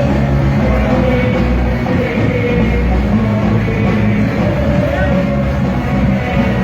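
Live band playing amplified rock music with bass, drums and guitar, loud and steady.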